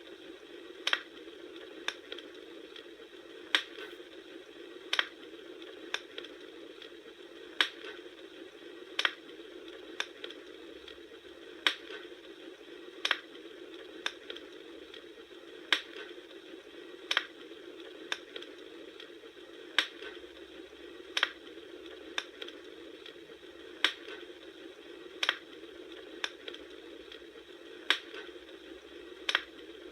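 Campfire crackling: sharp wood pops at a very even pace, about one every second and a half, over a steady soft hiss.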